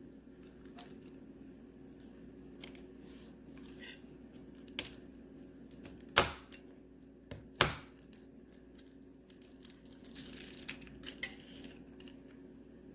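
Layered wax melt loaf being cut and the crumbling pieces pushed around: scattered light clicks and crackling, with two sharper knocks a little past the middle.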